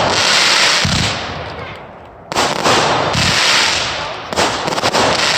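Consumer fireworks going off in three volleys, each a sharp bang followed by a dense crackle that fades away over about two seconds.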